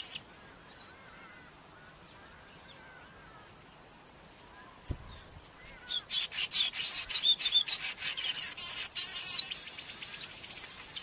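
Cape weaver singing: after a few quiet seconds with faint distant twittering, a run of short high notes starts, quickens into a dense buzzy chatter, and settles into a steady sizzling buzz near the end. A brief low thump comes about five seconds in.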